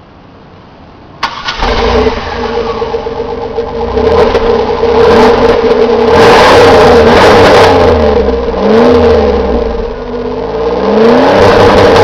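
1998 Pontiac Bonneville's 3.8-litre V6 starting about a second in, then revved up and down several times through its stock exhaust with a split tip on the tailpipe.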